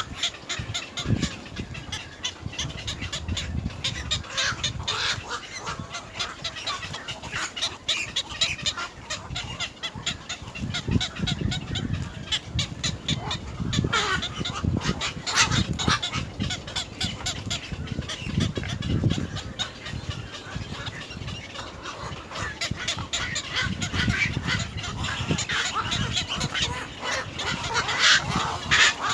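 Birds at a nest giving repeated harsh, honk-like calls mixed with rapid clicking, the calls coming in clusters throughout, over low thumps.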